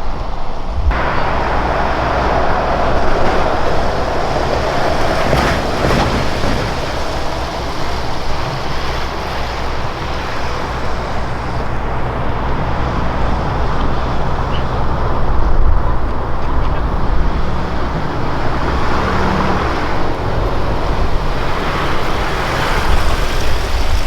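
2017 Ford Raptor on the move: a steady low engine drone under road and wind noise.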